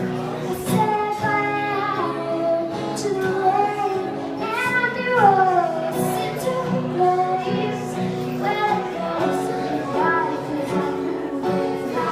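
Female voice singing a pop ballad, with long held notes that slide in pitch, over a steady musical accompaniment.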